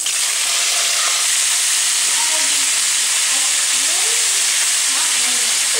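Washed bitter melon (karela) slices sizzling loudly in hot oil in a kadhai; the sizzle starts suddenly as the wet slices go in and holds steady.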